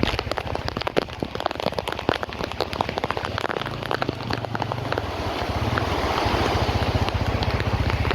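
Rain falling, with many separate drop hits close to the microphone over a steady hiss that grows fuller about halfway through. A low steady rumble runs underneath.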